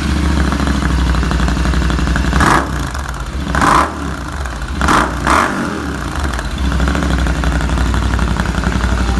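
Royal Enfield Interceptor 650's parallel-twin engine running at idle through aftermarket Red Rooster exhausts with their dB-killer baffles fitted. The throttle is blipped four times around the middle, then it settles back to a steady idle.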